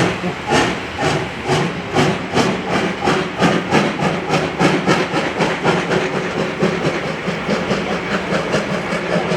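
C57 1 two-cylinder steam locomotive pulling away, its exhaust chuffing in quickening beats, from about two a second to about four a second. The beats fade somewhat near the end.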